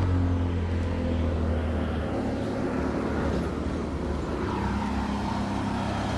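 A motor vehicle running close by, a low steady hum under a wash of road noise.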